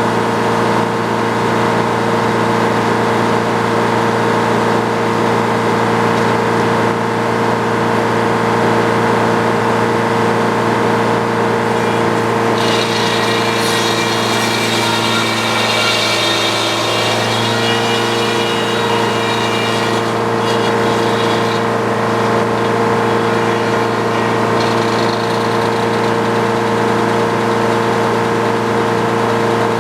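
Sawmill engine running steadily under power. From about 12 seconds in to about 21 seconds a higher, hissing cutting sound joins it as the saw blade passes through a white pine log.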